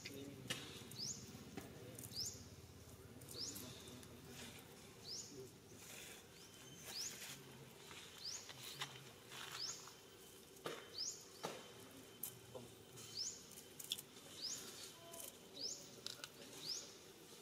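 A small bird's short, high, rising chirp, repeated about once a second, with a few faint clicks in between.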